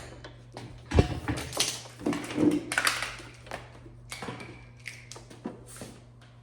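Hard objects being handled and set down: scattered knocks, clicks and rustles, with one sharp knock about a second in, over a faint steady low hum.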